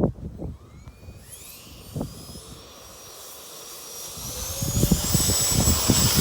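Radio-controlled F-16 jet's engine spooling up, a high whine climbing in pitch and growing louder over the last couple of seconds. Strong wind buffets the microphone with low rumbling gusts.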